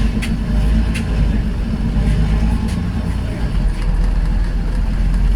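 Steady low rumble of a road vehicle in motion, with a couple of faint ticks in the first second.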